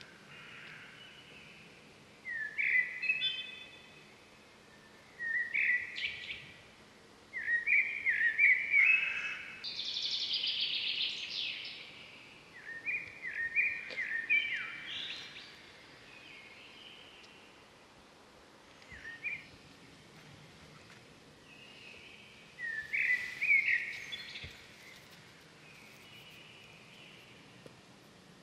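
Birds calling in short bursts of chirping phrases, about seven in all, with quiet gaps between them; one longer, buzzier burst comes about ten seconds in.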